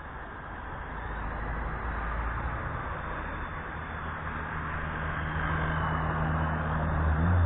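WLtoys V930 brushless RC helicopter's motor and rotors whirring steadily in flight, a low hum over an airy hiss, growing louder toward the end.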